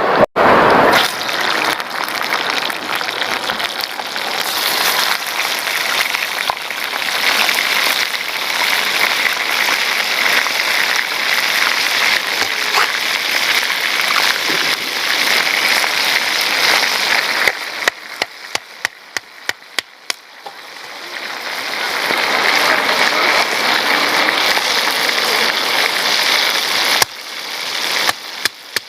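Sparrows frying in hot oil: a loud, steady sizzle that begins abruptly and twice dies down into scattered sharp pops and crackles of spitting oil.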